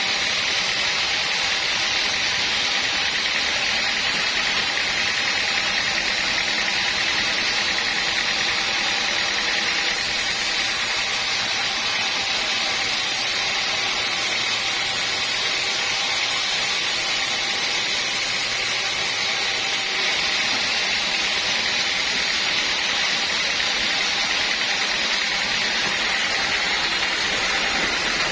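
Sawmill machinery running steadily: a constant, even mechanical noise with no breaks or changes.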